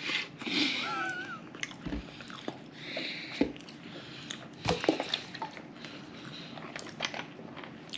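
A person chewing a soft, squidgy strawberry mochi, with wet mouth clicks and smacks, and a short high-pitched squeak about a second in.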